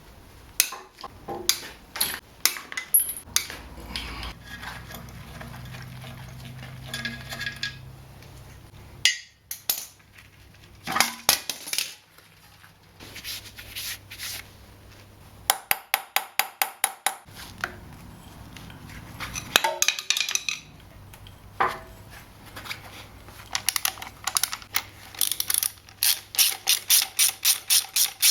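Hand tools on metal: runs of rapid ratchet-spanner clicks and the clink of spanners and bolts as the gearbox is unbolted from the engine.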